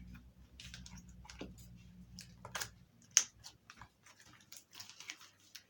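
Slime being handled and scraped off by hand: irregular small sticky clicks and crackles, one sharper click about three seconds in, over a faint low hum that stops partway through.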